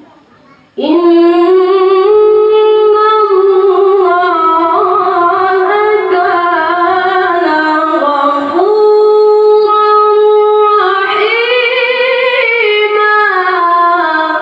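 A boy qari's voice reciting the Quran in melodic tilawah style, one long drawn-out phrase with ornamented turns between held notes. It enters about a second in, breaks briefly past the middle, then climbs again.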